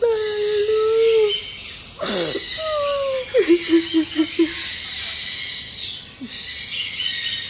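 Small pet bird chirping rapidly and continuously, alongside a person's wordless whimpering, cooing voice that breaks into a few short pulses about halfway through.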